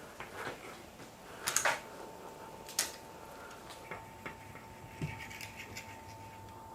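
Scattered light clicks and taps of parts and tools being handled, with a faint steady high tone running from about two seconds in.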